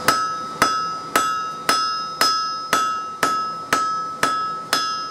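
Hand hammer striking hot truck coil-spring steel on an anvil: about ten even blows, roughly two a second, each followed by a clear ring from the anvil.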